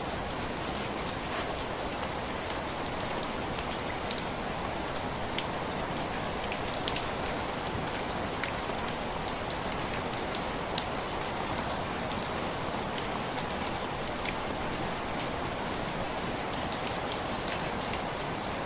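Steady rain on window glass, a constant hiss with individual drops ticking sharply here and there, one louder tick about eleven seconds in.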